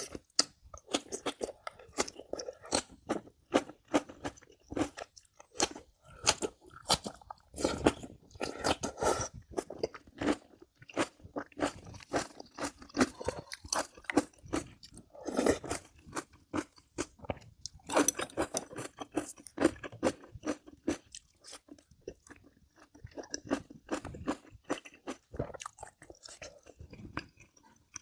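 Close-miked chewing with many crisp crunches, a person eating kimchi-laden rice and side dishes; the crunching thins out in the last few seconds.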